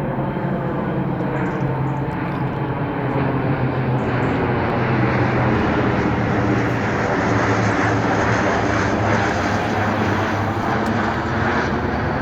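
Jet aircraft engines running steadily as a plane passes near the airfield, growing a little louder about midway and easing off near the end.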